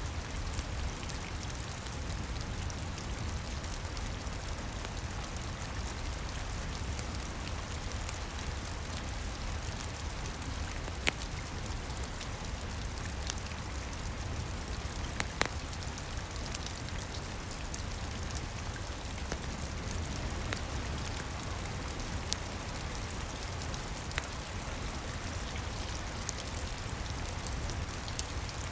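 Steady rain pattering on a roof, with a low even rumble underneath and a handful of sharp isolated pops from a crackling wood fire.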